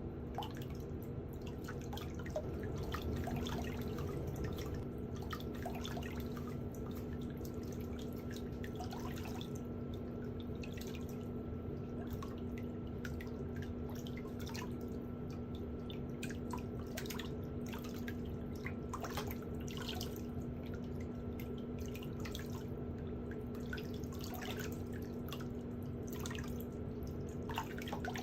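Irregular wet drips and small splashes of water over a steady low hum.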